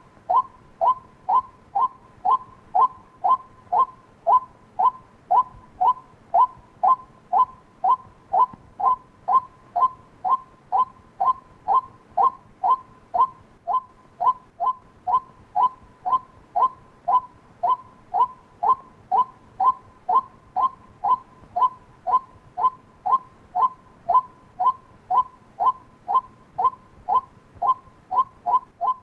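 White-breasted waterhen calling, a monotonous string of short 'kwak' notes repeated about twice a second without a break.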